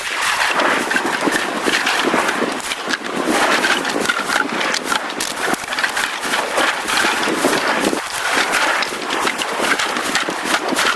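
Footsteps crunching over beach sand and storm debris, a dense, uneven run of crackles.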